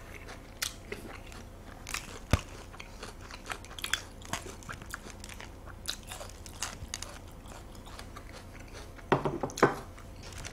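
Close-miked chewing of raw food, wet mouth sounds and many small clicks, with a sharp knock about two seconds in and a louder spell of chewing near the end.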